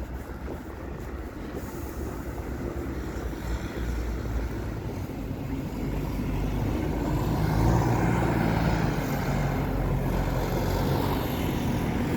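City street traffic: a steady rumble of motor vehicles, with one vehicle's engine growing louder from about halfway through as it draws near.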